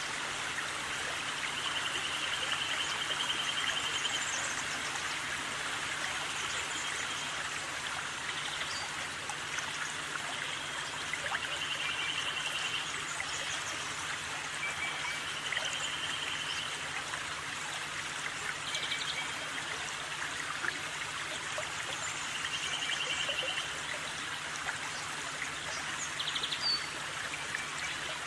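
Steady rushing, stream-like outdoor noise, with short, fast, high-pitched trills of about a second recurring every few seconds.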